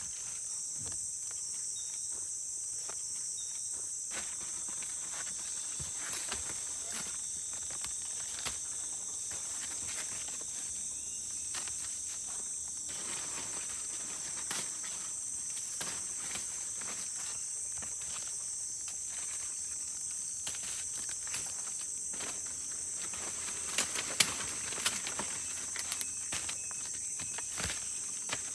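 Steady high-pitched chorus of forest insects, with scattered small clicks and taps throughout and a few sharper knocks near the end.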